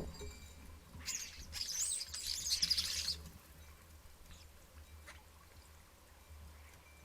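Starlings calling in a loud burst of high, wavering chirps that starts about a second in and lasts about two seconds, mixed with water splashing in a bird bath. Fainter calls follow.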